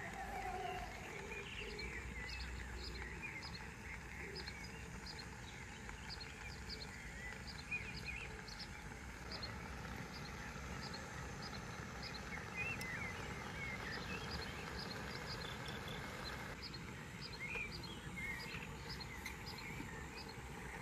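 Quiet rural garden ambience: a steady low background with small birds chirping faintly and repeatedly throughout.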